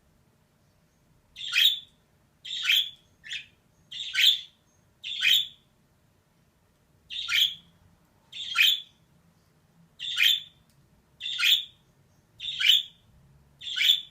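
Female budgerigar giving a series of short, sharp calls, about eleven of them roughly a second apart, with a slightly longer pause midway.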